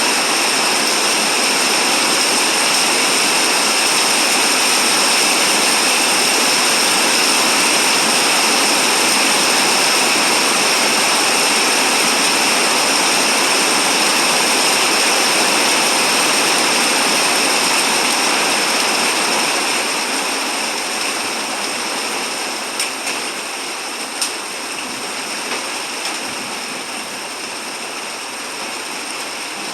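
Heavy rain falling steadily, a dense even hiss. It eases off about two-thirds of the way through, with a few sharp drip ticks after that.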